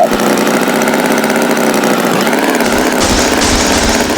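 Tractor engine sound effect running steadily at idle, with a brief hiss about three seconds in.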